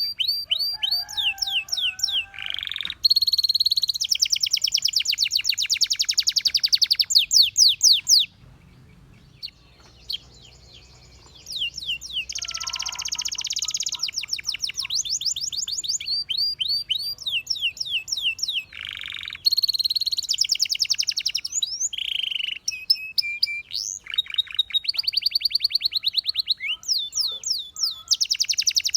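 Domestic canary singing: long, fast trills of quickly repeated high notes, mixed with rising and falling glides, broken by a pause of about three seconds about a third of the way through.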